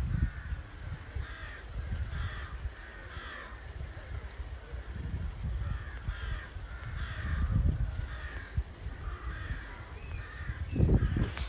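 A bird cawing in runs of short, harsh calls about a second apart, over an intermittent low rumble.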